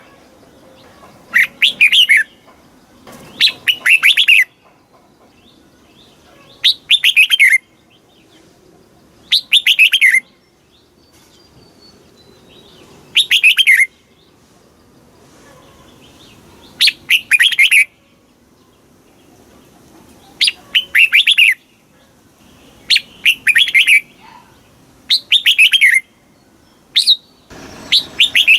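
Red-whiskered bulbul singing. It gives short, bright whistled phrases, each about a second long, with a pause of one to four seconds between them, about ten phrases in all.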